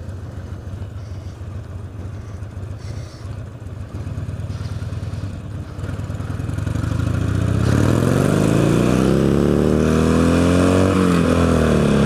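Motorcycle engine running low and steady, then accelerating about seven seconds in, its pitch climbing, dipping briefly near the end and climbing again; heard through a microphone stuffed in the rider's helmet liner.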